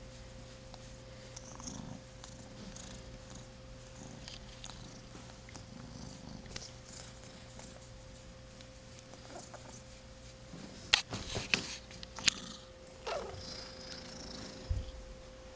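Young kitten purring steadily while being petted; the kitten has a congested nose from a respiratory illness. About eleven seconds in, a brief cluster of sharp clicks and rustles is the loudest sound.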